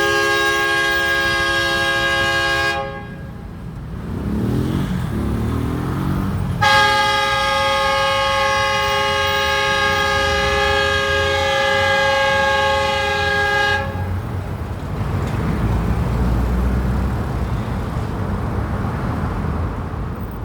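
Old locomotive sounding its horn: a chord of several steady notes that cuts off about three seconds in. A second long blast starts around seven seconds in and lasts about seven seconds, after a low wavering tone. A low rumble follows to the end.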